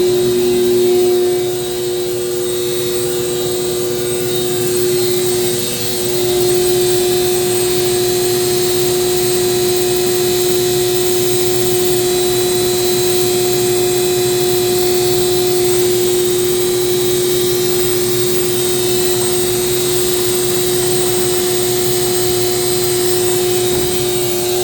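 Vacuum truck's pump running steadily, a constant whine over a rushing hiss as it draws a load into the tank.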